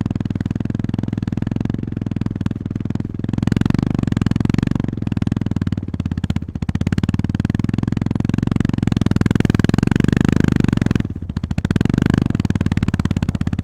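Honda GB350S's air-cooled single-cylinder engine and exhaust running under way with a steady pulsing beat. The engine note dips briefly three times as the throttle eases off, then picks up again.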